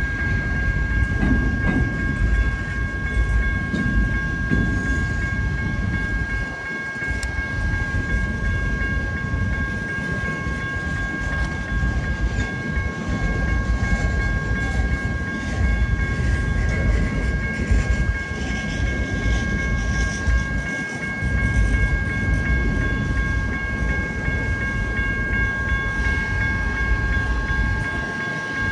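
BNSF manifest freight train rolling past, with the low rumble and clatter of its freight cars on the rails. A steady high-pitched tone rings on top throughout.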